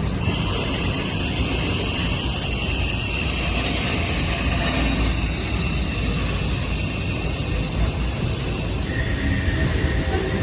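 Freight train cars rolling past on the rails, a steady rumble of the wheels with a continuous high-pitched wheel squeal above it.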